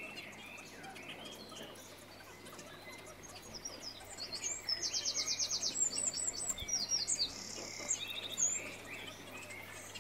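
Birds chirping, with a fast high trill and several short calls in the middle stretch, over a faint steady low hum.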